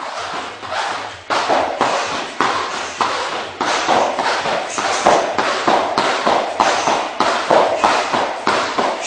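A fast, steady run of sharp slaps or thuds, about three a second, from repeated strikes or impacts during a workout.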